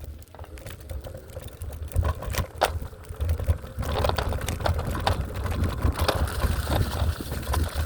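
Electric scooter rolling over rocky ground: a low rumble from the wheels with frequent rattles and knocks, getting louder about two seconds in and again about four seconds in as it picks up speed.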